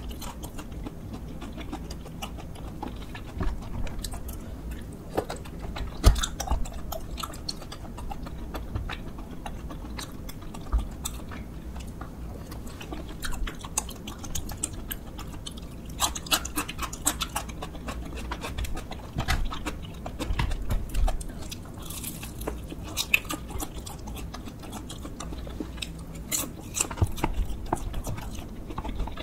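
Close-miked chewing of hard, crunchy boneless fried chicken, with irregular crackling crunches coming in clusters.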